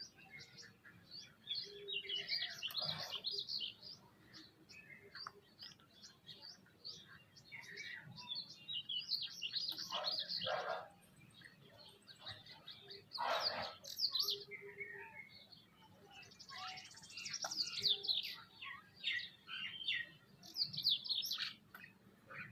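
Several birds chirping and calling over one another in quick short notes, with a few louder, harsher calls about three, ten and thirteen seconds in.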